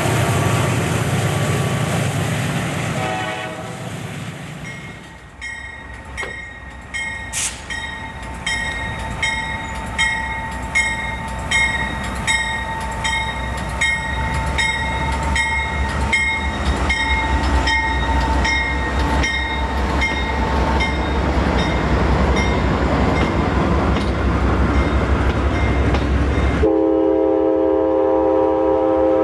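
A freight train rolling past, then a bell ringing steadily about twice a second while the deep rumble of Amtrak GE P42 diesel locomotives builds as they approach and pass. Near the end the lead locomotive's air horn sounds a loud, steady multi-note chord.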